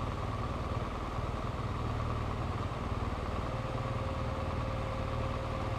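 BMW R1200GS boxer-twin engine idling steadily with the motorcycle standing still.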